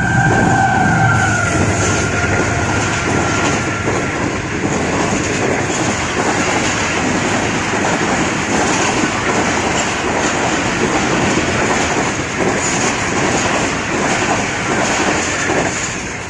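Passenger train passing at speed close by. The locomotive's horn note dips slightly in pitch and fades out within about two seconds, then the coaches' wheels rattle steadily over the rails, easing off near the end.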